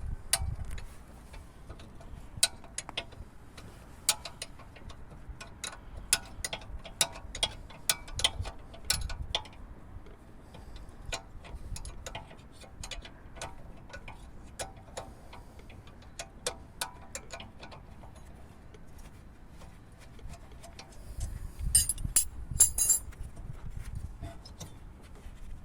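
Irregular metallic clicks and clinks of hand tools and brake parts being handled, dense for the first ten seconds and sparser after, with a short burst of bright rattling about 22 seconds in.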